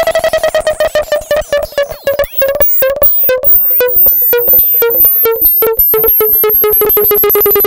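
Synthesized laser-beam sound effect: an electronic tone with many harmonics, chopped into rapid stuttering pulses that slowly fall and then step between lower pitches, with a thin, very high whine above.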